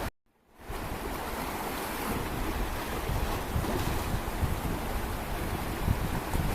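Sea surf washing on the shore with wind buffeting the microphone in low gusty rumbles. The sound drops out briefly about a tenth of a second in and returns after about half a second.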